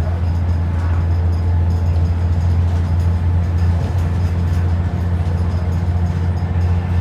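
Low, steady drone of an ADL Enviro 400 double-decker bus's diesel engine running, heard from inside the bus.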